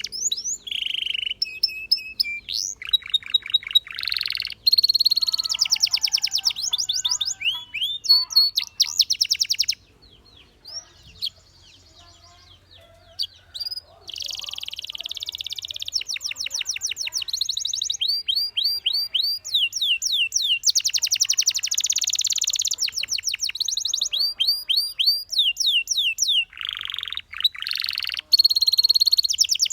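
Canary singing: fast trills and rolls of rapidly repeated notes mixed with sweeping whistled notes. A pause of a few seconds comes about ten seconds in, then the song resumes.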